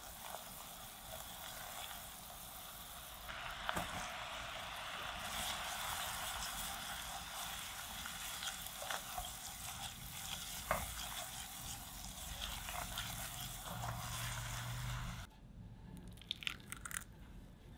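Minced garlic sizzling in melted butter in a nonstick pan, stirred with a silicone spatula, with a few light taps of the spatula. About fifteen seconds in the sizzling stops suddenly, leaving a few soft clicks as the mixture is poured from the pan into a bowl.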